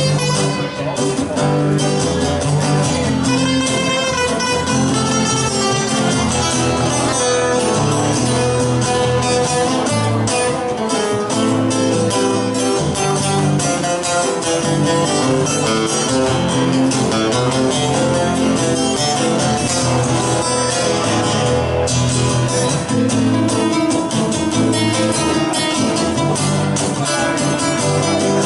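Two guitars playing a Spanish-style instrumental: a strummed rhythm guitar under a picked lead guitar melody.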